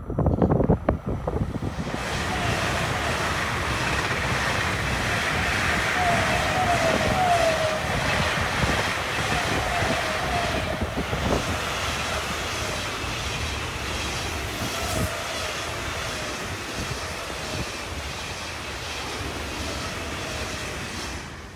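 SBB RABDe 500 (ICN) electric tilting train, two units coupled, passing at speed: a steady rush of steel wheels on rail, with short high squeals coming and going. A low rumble bursts in during the first second, and the sound slowly fades as the last cars go by.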